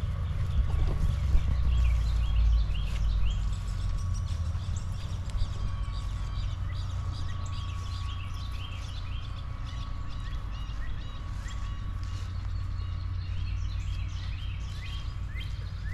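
Wild birds chirping and singing, many short calls one after another throughout, over a steady low rumble.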